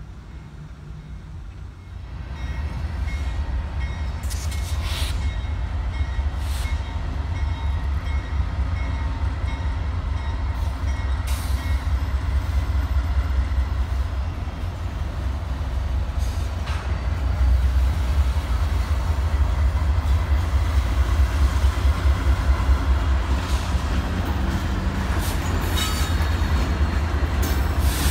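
Train rolling by: a steady low rumble that swells about two seconds in and grows louder again past the middle, with scattered sharp clicks over it.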